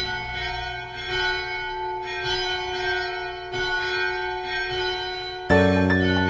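Church bell ringing, struck about once a second and ringing on between strikes, about five strikes in all. Near the end, louder instrumental music comes in with sustained chords.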